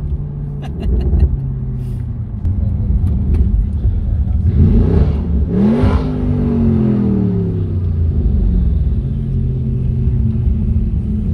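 Audi RS6's twin-turbo V8 running at low speed, heard from inside the cabin. Between about four and seven seconds in, a louder engine sound rises and then falls in pitch.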